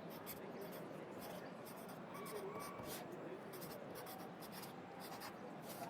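Pencil writing on paper: a quick, irregular run of short scratchy strokes, over a faint steady background of city noise.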